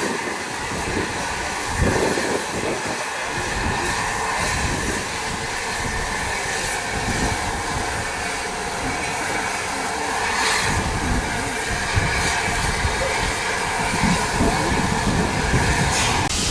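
Train running on the line: a steady rumble with held ringing tones and occasional clicks from the wheels on the track.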